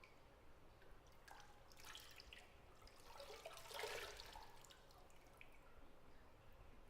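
Faint bathwater sounds: scattered drips, then a soft slosh of water in a bathtub that swells and fades about four seconds in, over quiet room tone.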